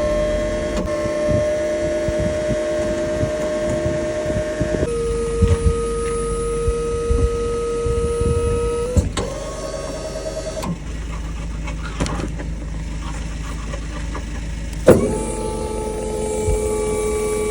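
Steady whine of an electric motor, heard in several short segments whose pitch jumps at each cut, with scattered knocks and a sharp click about fifteen seconds in.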